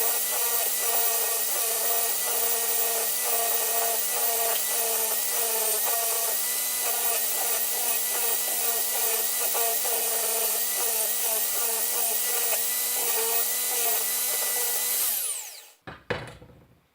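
Electric power tool running steadily under load against metal, stripping softened paint from the grinder's parts. About 15 seconds in it is switched off and its motor winds down, followed by a couple of short knocks.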